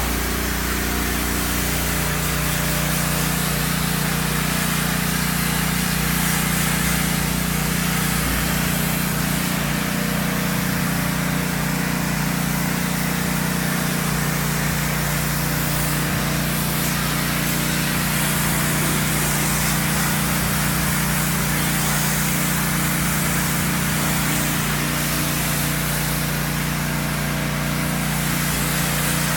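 Pressure washer running steadily and spraying a continuous jet of water over a car's paint, rinsing off foam sealant, with a constant motor hum under the hiss of the spray.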